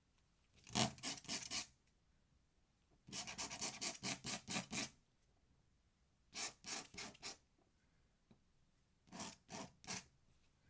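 Ink pen scratching across paper in quick back-and-forth strokes, in four short bursts of hatching.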